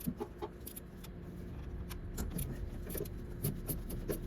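Hand tools clinking and clicking: a metal socket and wrench being handled and tried on a 12 mm bolt. The sound is a string of irregular light clicks.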